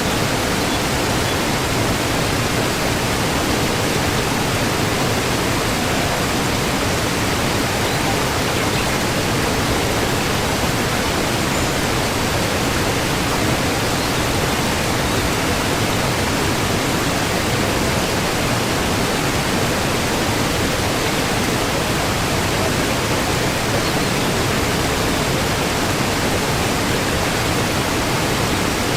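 Waterfall: falling water making a steady, even rush with no changes.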